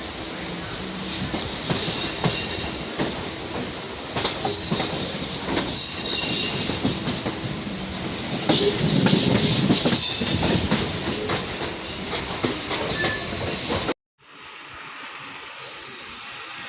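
Mumbai local electric train running into the station, its wheels clattering over the track with squeals on and off. The sound cuts off abruptly near the end, leaving a quieter steady hum.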